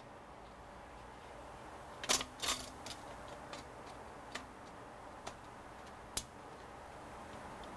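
Scattered light clicks and taps of small hardware parts being handled during a CPU cooler install. Two louder clatters come close together about two seconds in, and a sharp single click about six seconds in.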